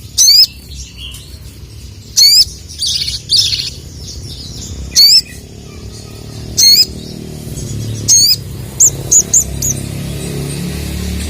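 Little spiderhunter (sogok ontong) giving loud, sharp "cuit" call notes about every two seconds, with softer twittering after the second call. Near the end comes a quick run of four shorter notes, over a low background rumble.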